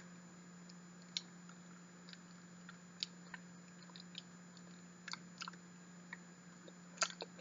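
Quiet, wet chewing of soft, custardy durian flesh, with a few scattered mouth clicks and smacks.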